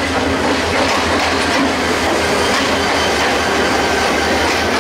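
A Bangladesh Railway diesel locomotive and its passenger coaches passing close by, with a steady, loud rumble of the engine and the wheels on the rails.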